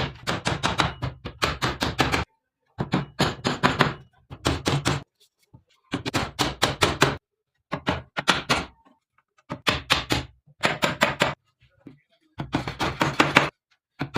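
Seed-cleaning machine running with a fast rattling clatter over a low motor hum. It comes in about eight bursts of a second or so, each cut off by a sudden silence.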